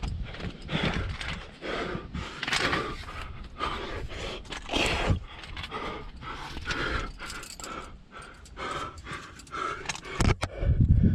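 A climber panting hard, with irregular rustles and scrapes of body and gear against the rock while working up a chimney. A low rumble comes in near the end.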